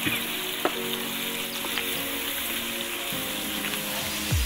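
Chopped onions, curry leaves and mustard seeds sizzling in hot oil in a pan as they are stirred with a wooden spatula, with a few light clicks of the spatula.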